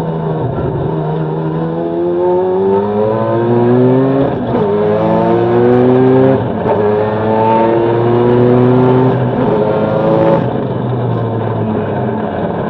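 Mazda Gen-1 RX-7 rally car's engine accelerating hard through the gears. The pitch climbs and falls back at upshifts about four and a half and six seconds in, then pulls up again until the driver lifts off about ten seconds in.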